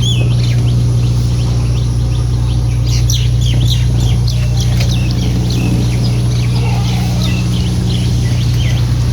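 Many birds chirping in short, quick high calls over a steady low machine hum, the loudest sound, which holds unchanged throughout.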